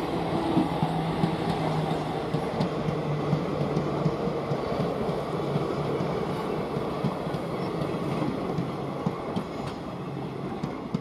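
Passenger coaches of an express train running past on the track: a steady rumble of wheels on rails with light clicking over the rail joints, growing quieter near the end as the last coaches go by.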